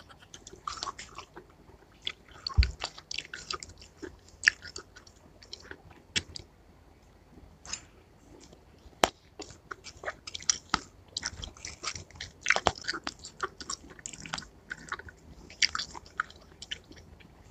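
Close-up wet chewing and biting of juicy watermelon chunks, in irregular bursts, with a few sharp clicks among them.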